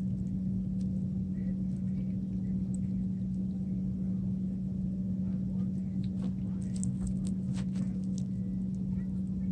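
Kitten eating: a few faint small clicks about six to eight seconds in, over a steady low hum.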